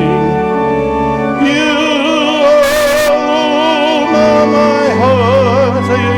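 A hymn being sung, the voices wavering with vibrato over long held chords from a keyboard accompaniment, with a sustained bass note. The melody moves to new notes a few times.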